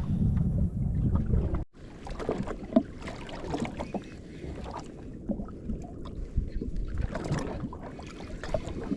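Water lapping and slapping against the hull of a jet ski on the open sea, with small irregular splashes. Wind buffets the microphone with a loud low rumble for the first second and a half, then drops off suddenly.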